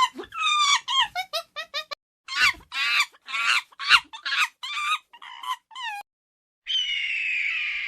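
Domestic fowl calling: quick runs of short clucking calls, each dropping in pitch. After a short gap near the end, a different, raspier falling call begins.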